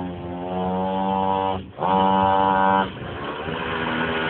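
Pocket bike's small two-stroke engine running on its stock exhaust, which the owner calls hellishly loud. The engine holds a steady note, dips for a moment about one and a half seconds in, then runs louder for about a second before falling back and slowly climbing again.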